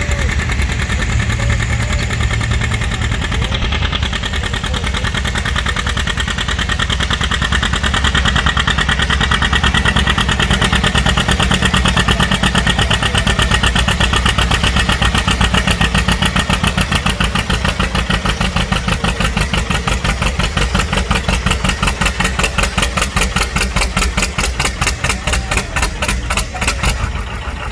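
Farm tractor engine running hard under load on a pulling track, dragging a weight-transfer sled. About halfway through, its note turns into distinct, evenly spaced exhaust beats as the engine lugs down under the load.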